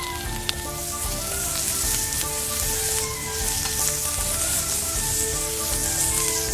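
Food sizzling steadily in a hot iron frying pan over a campfire, with light background music.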